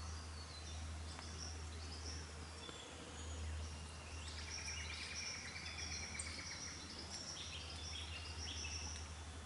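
Birds calling in bushland: short high chirps and whistles, with a buzzy rattling series of notes about halfway through. A steady low hum lies underneath.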